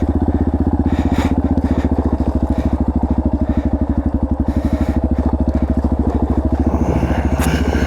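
Dirt bike engine idling steadily with an even, fast pulse and no revving.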